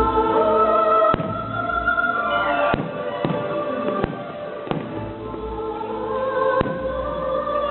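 Fireworks bursting, about six sharp bangs spread through a few seconds with deep low booms, over loud show music with held tones.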